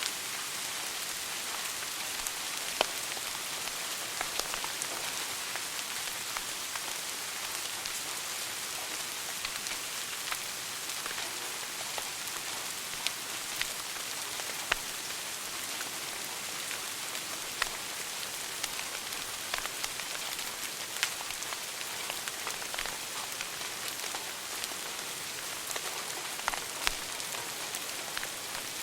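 Wood fire burning in a fireplace: a steady hiss with irregular crackles and the occasional louder pop.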